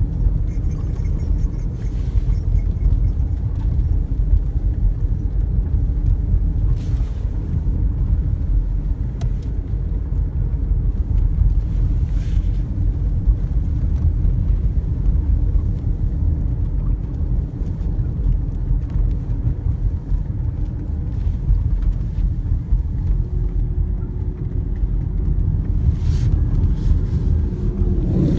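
A car running, heard as a steady low rumble of engine and road noise. A faint steady hum joins it near the end.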